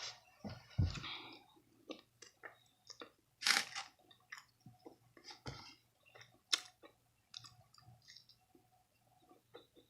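A person chewing food close to the microphone: irregular wet smacks and mouth clicks, a few louder ones scattered through.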